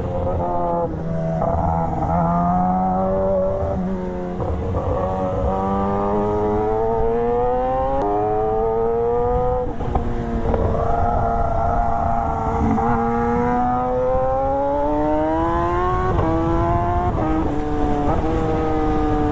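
Sport motorcycle engine pulling hard through the gears, its pitch climbing steadily and dropping suddenly at each upshift, several times.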